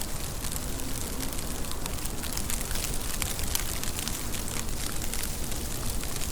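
Steady rain: a dense, even hiss dotted with many sharp ticks of individual drops striking a surface.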